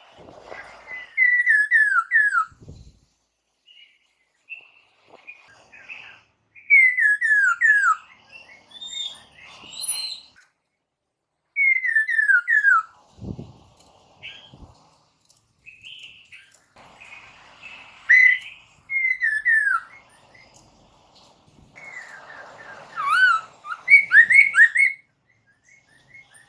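Poksay mandarin (black-throated laughingthrush) singing loud whistled phrases, each a quick run of notes falling in pitch, repeated about six times with short pauses between, the song used as a lure call to get other birds to answer. Two brief low thuds come through, early on and about halfway.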